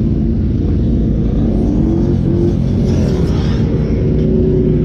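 Yamaha R1's inline-four engine running steadily under way, with a short rise in pitch about two seconds in.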